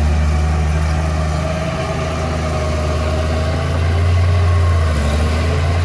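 Diesel engine of heavy earthmoving machinery running steadily, with a low hum that swells slightly about four seconds in.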